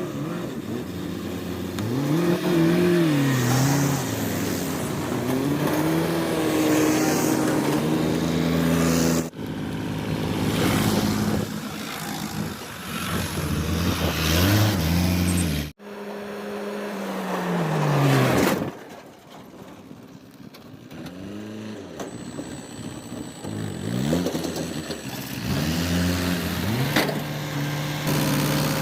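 Bull backhoe loader's diesel engine running and being revved, its pitch rising and falling again and again as the machine works. The sound breaks off abruptly twice, where one clip is cut to the next.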